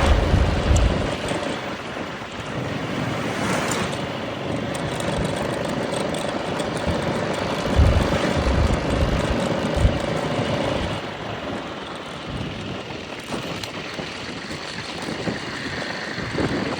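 Wind buffeting the microphone in gusts over a steady outdoor rush, with the faint steady drone of a distant engine for several seconds in the middle.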